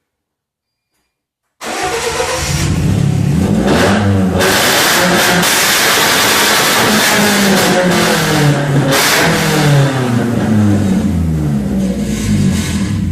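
BMW 318ti four-cylinder engine running with no muffler, very loud and raw. It starts abruptly about a second and a half in and is revved up and down repeatedly.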